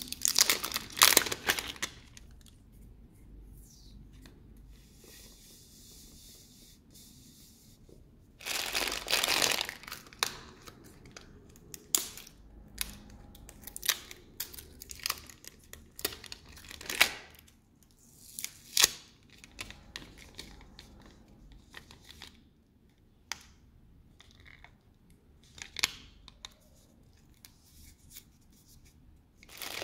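Packaging being torn open and crinkled: two longer tearing bursts, one at the start and one about eight and a half seconds in, then a run of short rustles, crinkles and clicks.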